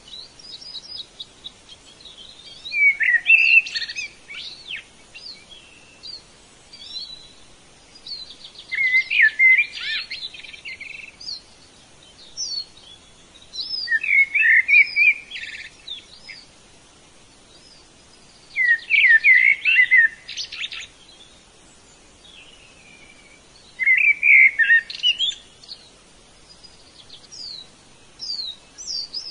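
Songbird singing, a phrase of about two seconds repeated roughly every five seconds, with thin high whistled notes between the phrases.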